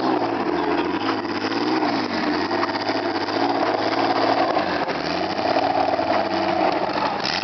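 Turbocharged 2.5-litre engine of a BMW E30 drift car running at low revs as the car rolls slowly, its pitch rising and falling gently with small throttle changes.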